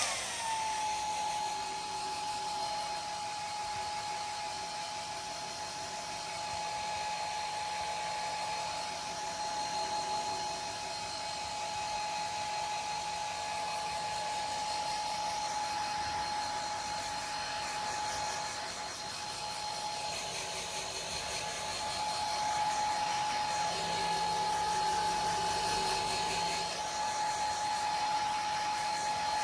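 A hair dryer running steadily: a rushing airflow hiss with a steady high motor whine, which drops slightly in pitch as it settles in the first moment.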